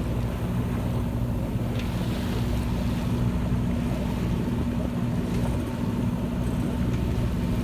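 A sailboat's inboard engine running steadily under power, a low even hum, with wash of water and wind noise over it.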